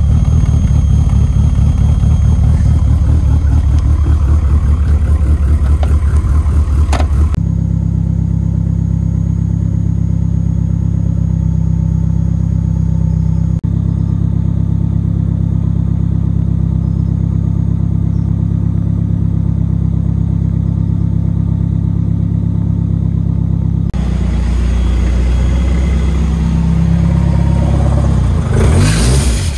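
Mazda RX-7's engine idling as it warms up from a cold start in sub-zero frost, heard in several short clips that cut abruptly from one to the next. Just before the end the engine note rises briefly.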